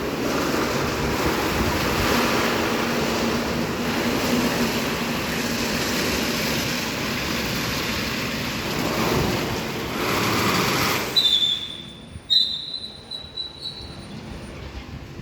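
An Istobal M12+ rollover car wash gantry running with a loud, even rush of spray and machinery noise that cuts off about eleven seconds in. A few short high-pitched squeals follow.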